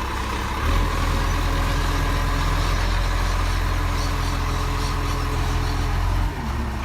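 Garbage truck's diesel engine running with a steady low rumble, louder from just before a second in until it drops back shortly before the end.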